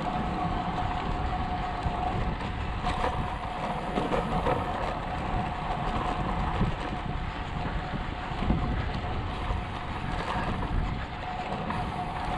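Wind rushing over the microphone of a camera riding along on a moving road bike, with a steady whine underneath.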